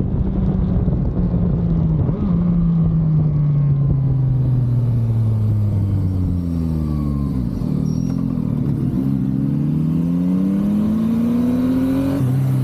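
Motorcycle engine heard from the rider's seat: revs fall for several seconds as the bike slows, then climb steadily under acceleration and drop sharply near the end at a gear change. Wind rush is mixed in at the start.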